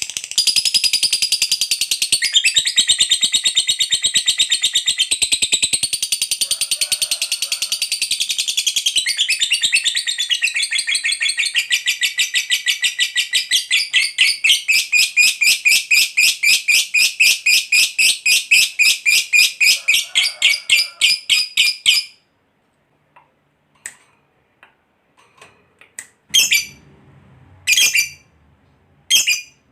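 Lovebird giving a long ngekek: a continuous, rapid, high-pitched chattering trill of about twenty seconds that cuts off abruptly. After a pause, a few short separate chirps near the end.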